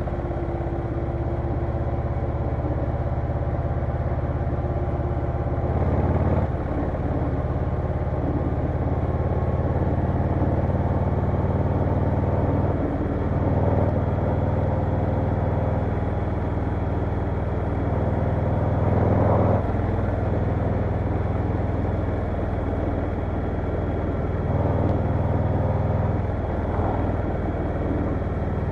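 Harley-Davidson Low Rider S V-twin engine running under way on the road, its exhaust note changing several times with throttle or gear changes.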